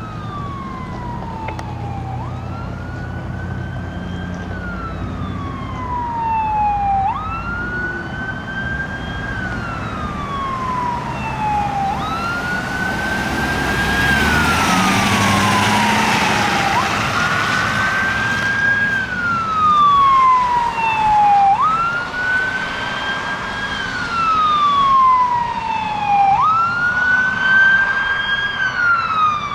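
Fire engine siren on wail: each cycle rises quickly, then falls slowly, repeating about every five seconds. Engine and road noise from the truck swell partway through and stay louder afterwards.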